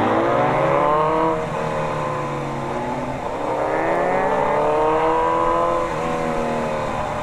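High-performance engine accelerating hard through the gears. Its pitch climbs, drops at each upshift about a second in and again later, and climbs again.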